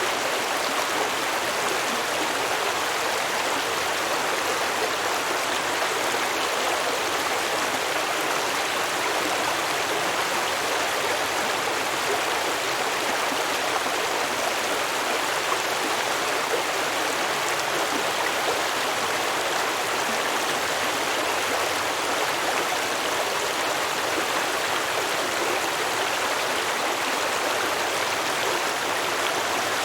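Small stream flowing and babbling over rocks, a steady rush of water.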